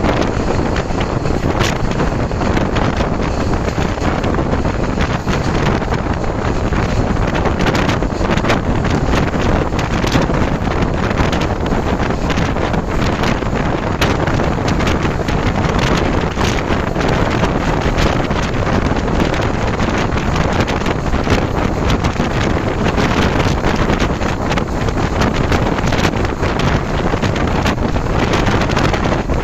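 Passenger train running, heard from on board: a steady rumble with wind buffeting the microphone and frequent irregular rattles and knocks.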